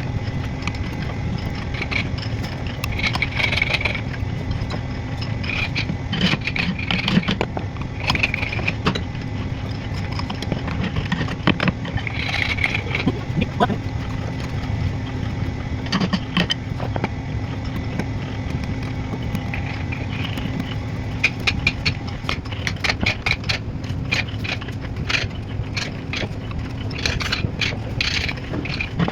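Hand wood-carving tools working into wood: irregular taps and scrapes that quicken into a rapid run of taps near the end, over a steady low hum.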